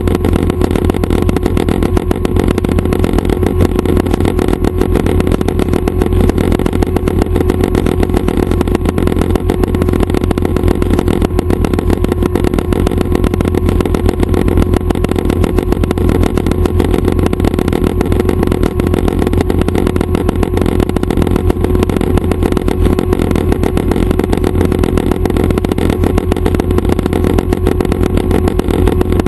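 Schweizer 269 helicopter's piston engine and rotors running steadily, a loud, unchanging drone with a constant hum.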